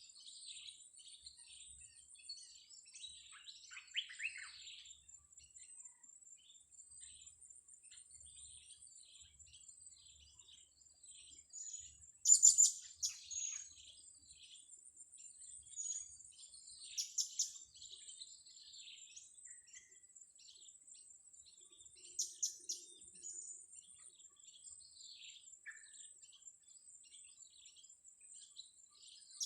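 Blue-crowned hanging parrots (serindit) calling with quick, high-pitched chirps, with sharp loud bursts of calls about a dozen, seventeen and twenty-two seconds in and again near the end. A steady thin high-pitched tone runs underneath.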